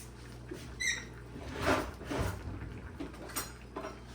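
Light kitchen handling noises, brief clatters and rustles, over a low steady hum, with one short high squeak about a second in.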